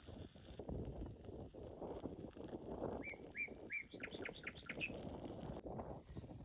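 A small songbird chirping: a few short notes about halfway through, then a quick run of chirps. Underneath there is a steady low crackling rustle.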